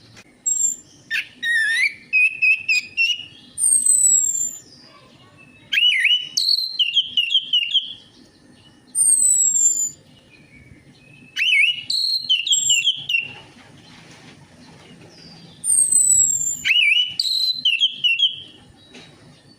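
Orange-headed thrush (anis merah) singing: loud, varied phrases of clear whistles, quick warbled trills and high downward-sliding notes, delivered in bursts with short pauses between them. Some phrases are repeated.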